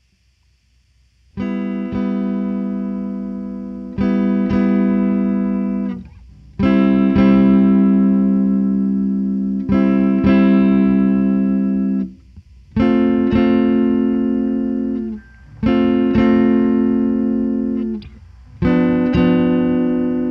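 Guitar chords played slowly, each chord struck and left to ring for about two seconds before the next, after a near-silent first second.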